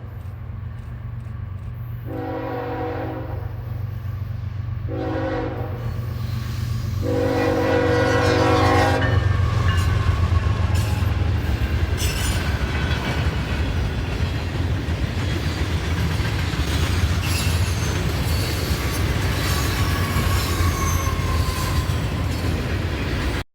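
Diesel freight train approaching with its engine rumbling, sounding its air horn three times (long, short, long), then passing close by with a steady clatter of wheels over the rail joints.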